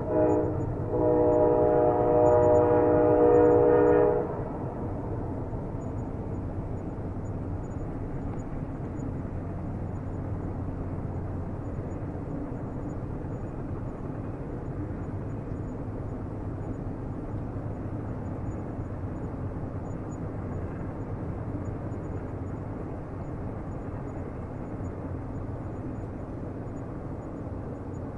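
Train horn sounding a long chord-like blast, with a short break just after the start, that cuts off about four seconds in; then the steady rumble of a train rolling along the rails.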